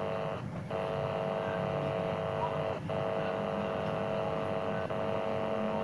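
Steady electrical hum made of several even tones, cutting out briefly twice.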